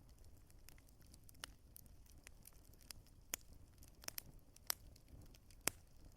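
Burning wood crackling in a fireplace: irregular sharp pops and snaps over a faint low rumble, with a few louder pops in the second half.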